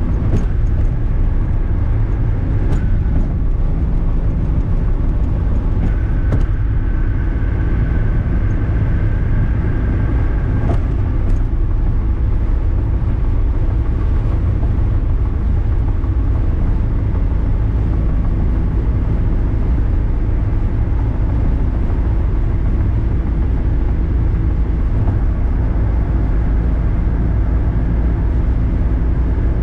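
Cabin sound of a 1978 Datsun 280Z cruising at highway speed: its inline-six engine drones steadily under road and wind noise.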